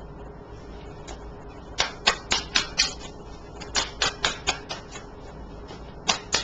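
Tarot cards being shuffled by hand, the cards slapping together in quick runs of sharp clicks, about four a second. There are three short bursts.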